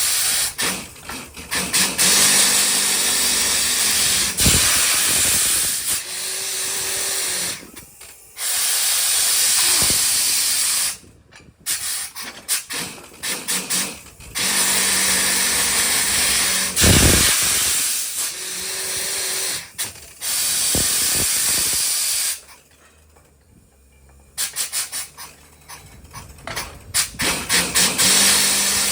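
Borewell drilling rig blowing compressed air: loud hissing in blocks of a few seconds with short breaks between, over a low steady machine hum.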